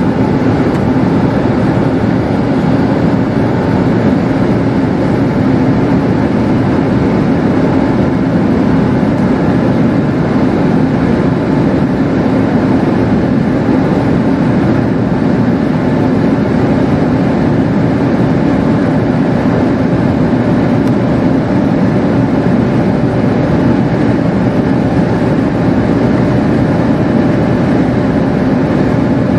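Renault Clio 4's 1.5 dCi four-cylinder turbodiesel heard from inside the cabin, a steady drone at about 3,000 rpm as the car keeps accelerating slowly at around 160–170 km/h, with wind and road noise.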